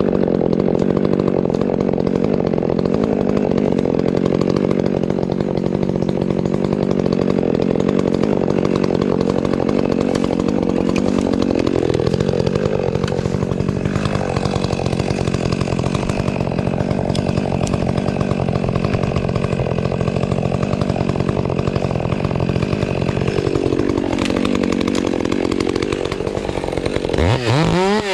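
Gas chainsaw running hard and cutting wood, its engine note sagging under load twice. Near the end it is revved up and down several times in quick succession.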